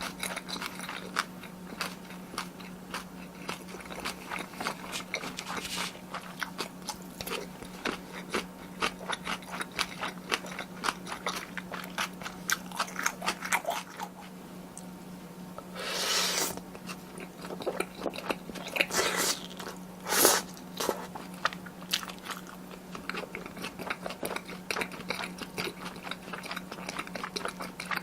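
Close-miked eating of spicy tteokbokki with glass noodles and melted cheese: rapid wet chewing and biting clicks, with a few longer, louder bursts in the second half. A steady low hum runs underneath.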